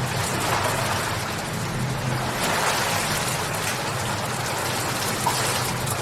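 Steady rain falling: an even hiss with scattered drops and a low steady rumble underneath.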